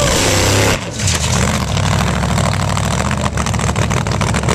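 Supercharged, injected big-block Chevy V8 of a drag race car running at a low, lumpy idle with a rapid crackle, loud and steady apart from a brief dip about a second in.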